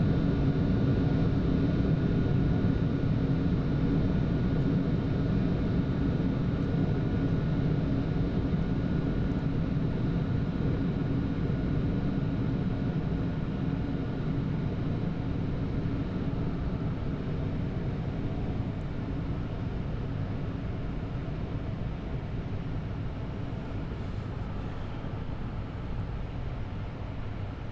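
Steady rush of airflow and engine noise inside the cockpit of a Boeing 747-8 climbing after takeoff, with a faint steady whine on top, slowly getting quieter.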